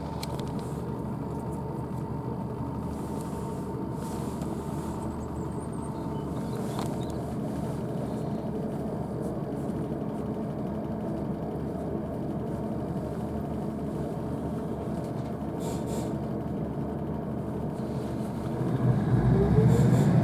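Inside a diesel multiple unit on the move: the underfloor diesel engine drones steadily under the wheel and rail rumble. About 18 s in, the engine revs up, rising in pitch and getting louder as the train accelerates.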